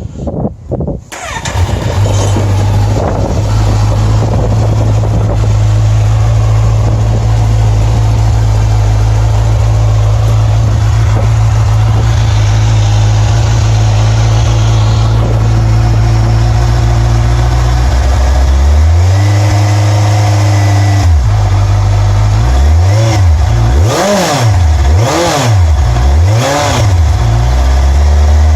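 Kawasaki Z1000SX's inline-four on its standard exhaust cranking and starting about a second in, then idling steadily. Late on, the revs are held up briefly, followed by four quick blips of the throttle before it settles back to idle.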